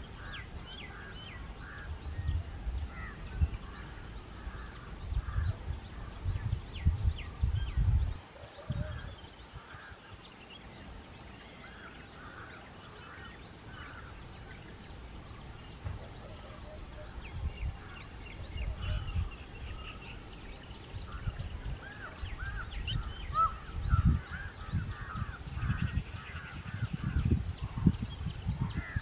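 Birds calling outdoors in runs of short, quickly repeated notes, with a few higher chirps. Uneven low rumbling underneath is loudest in several bursts.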